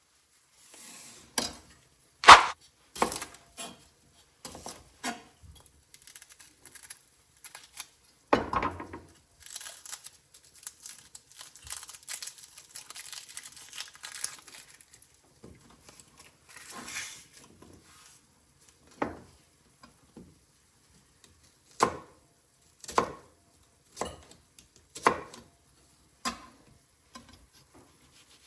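Pots and kitchen utensils knocking and clinking while a soffritto is started, with a stretch of soft sizzling in the middle and a run of single sharp knocks about a second apart near the end.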